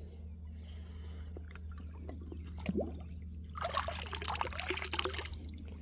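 Creek water splashing and trickling as something is stirred or lifted out of the streambed, after a few small knocks about two to three seconds in.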